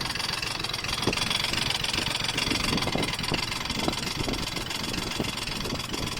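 Honda Gyro Canopy scooter engine idling steadily, with irregular knocks a few times a second. This is the abnormal noise the owner is recording.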